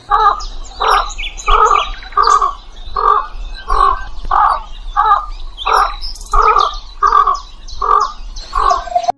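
A bird calling over and over: about a dozen calls, each a little under a second apart. Fainter, higher chirps from other birds sound above them, and the sound cuts off suddenly at the end.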